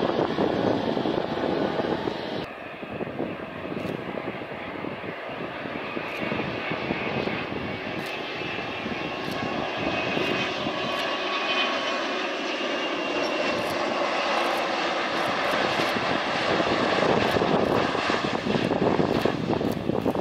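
Passenger airliner's engines running as it passes close by: a continuous rushing noise with a faint whine in the middle, growing louder over the second half.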